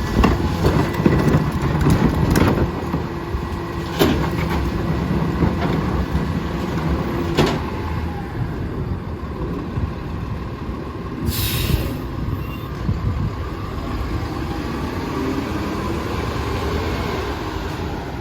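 Rear-loader garbage truck running, with sharp knocks and clanks in the first half and a short hiss of air about eleven seconds in.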